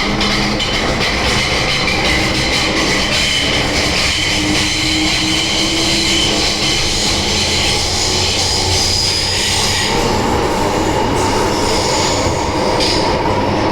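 MTR M-train electric multiple unit running on the Island Line: a steady loud rumble of wheels on rail, with high wheel squeal and shifting tones. A steady tone enters about ten seconds in.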